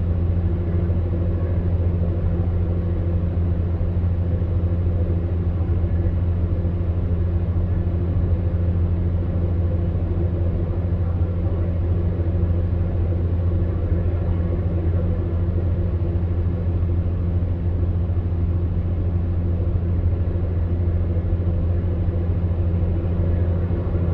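Electric fan heater running steadily: a deep even hum with a softer rush of air over it, unchanging throughout.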